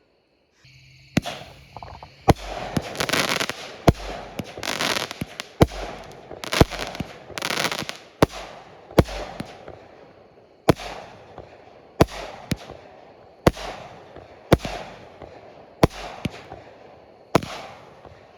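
Consumer 200-gram firework cake (Dominator Diamondback 16-shot) firing about fourteen shots, roughly one a second. Each is a sharp bang followed by a long spread of crackle.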